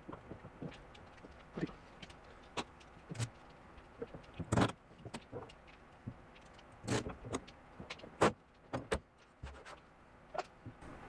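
Irregular light clicks and knocks of sheet metal and hand tools being handled while a patch panel is offered up to a car's quarter panel, with the loudest knocks about halfway through and again a little later.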